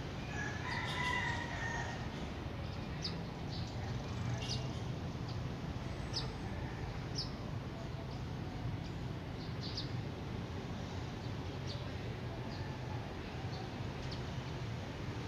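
A bird calling about a second in, a drawn-out pitched call, then short high chirps scattered over a steady low background rumble.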